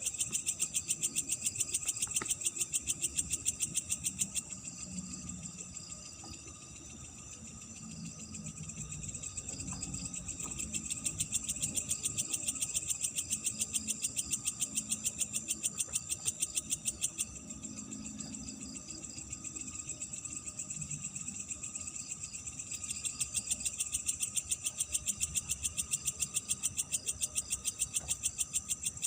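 Night chorus of crickets: a continuous, fast pulsing high chirp that fades somewhat twice before swelling back up, over a faint low rumble.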